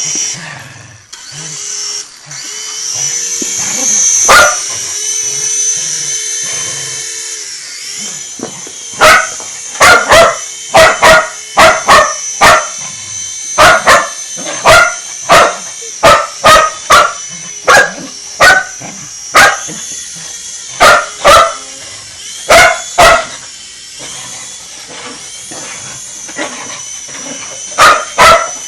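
Dog barking over and over, one or two sharp barks about every second from roughly a third of the way in, against a steady high-pitched whine from the helicopter's motor. The barks are the loudest sound.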